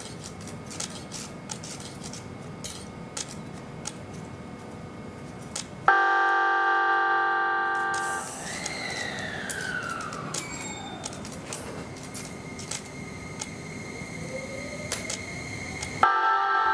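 Tobu N100-series Spacia X train sounding its horn, a loud chord-like blast of about two seconds. Its electric motors follow with a whine that slides down in pitch over a few seconds, then a whine rising again. The horn sounds a second time near the end.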